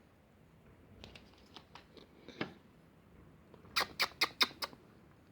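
Sharp small clicks and taps: a few scattered ones, then a quick run of about six louder clicks near the end.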